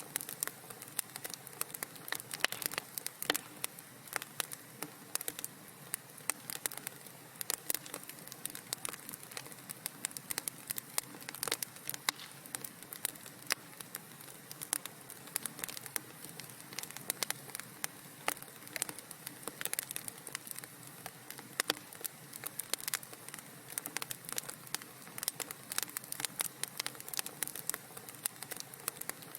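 Wood fire crackling in a fireplace: a dense, irregular run of small pops and snaps over a soft, steady low rush.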